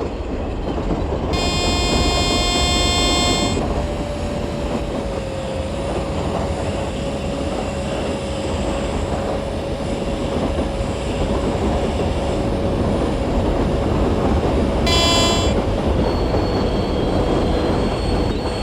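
Trains running at speed with a continuous rumble and a steady faint whine. A train horn blasts for about two seconds a second in, and again briefly about three-quarters of the way through.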